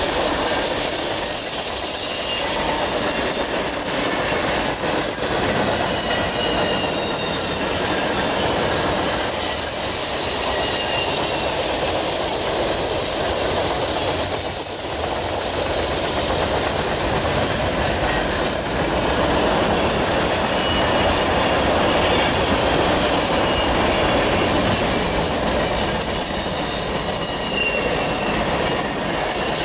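Freight train cars rolling past on steel rails, a steady rumble of wheels on track with short high-pitched wheel squeals now and then.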